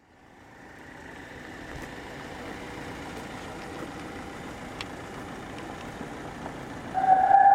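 Car engine idling with a steady low hum, fading in at the start. Near the end, loud music starts playing from the car's aftermarket sound system.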